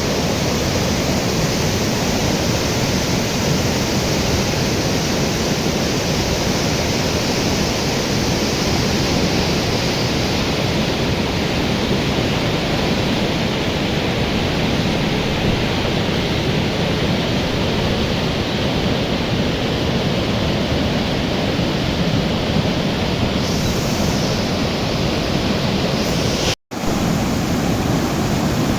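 Floodwater of a swollen mountain river rushing past in a loud, steady torrent, cutting out for an instant near the end.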